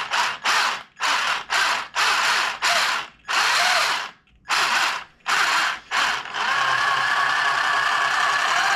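RC truck's electric motor and drivetrain whirring in short throttle bursts, about two a second with a few longer pulls, then running steadily from about six seconds in. Something doesn't sound great: the builder is unsure whether the motor or the gear mesh is at fault.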